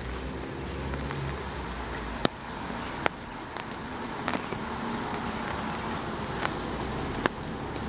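Steady rain with scattered sharp drips, and a motor vehicle's engine running low underneath, slowly growing louder.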